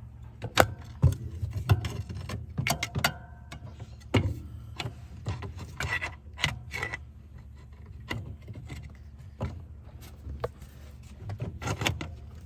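Metal hand tools clinking, knocking and scraping against engine parts in a run of irregular sharp clanks.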